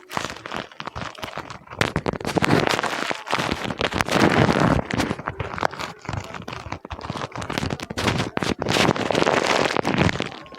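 Paper being crumpled and handled close to the microphone, a dense irregular crackle that swells and eases several times.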